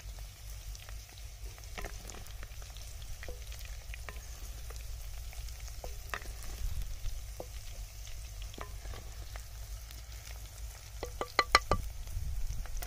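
Okra and onions sizzling in oil in a clay pot, with a wooden spatula scraping and clicking against the clay as the vegetables are scooped out into a dish. A quick run of sharp knocks near the end is the loudest sound.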